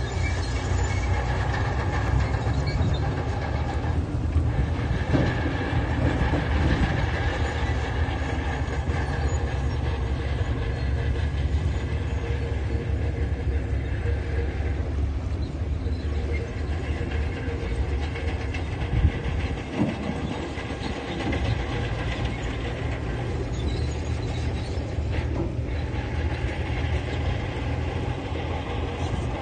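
Heavy earthmoving machinery running steadily under its diesel engine, with one short louder knock about two-thirds of the way through.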